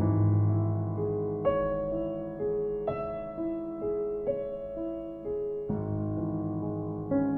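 Slow, soft piano music: notes and chords struck about every second to second and a half, each left to ring and fade.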